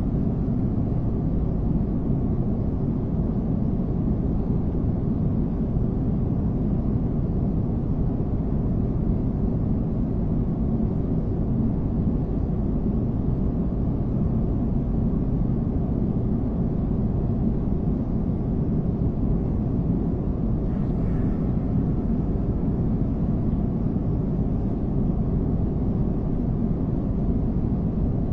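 Steady low rumble of a jet airliner in flight, even in level and pitch throughout.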